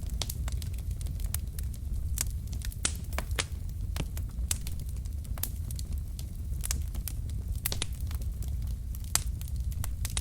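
Wood logs burning in a fireplace: irregular sharp crackles and pops, several a second at times, over a steady low rumble of the flames.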